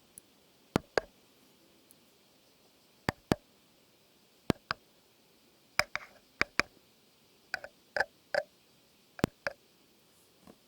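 Sharp, short clicks, mostly in pairs about a fifth of a second apart, repeated every second or so with quiet gaps between.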